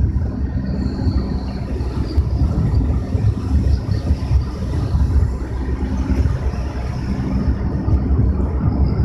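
Car driving: a steady low rumble of engine and road noise, with a faint engine hum.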